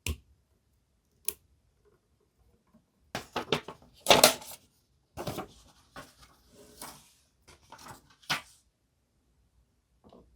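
Hands handling small hard parts of a model train set: sharp clicks, with a louder cluster of clicks and knocks in the middle and scattered softer handling noises after it.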